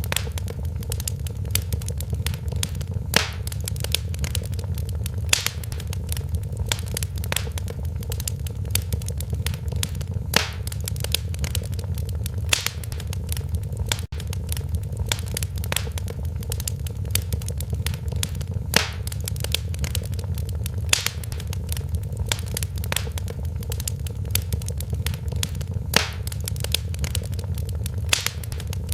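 Wood fire crackling in a fireplace over a steady low rumble, with a constant scatter of small ticks and a sharper pop every couple of seconds.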